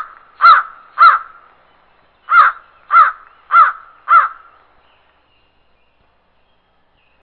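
A crow cawing in a regular rhythm, about two caws a second: a run of caws, a pause of about a second, then four more.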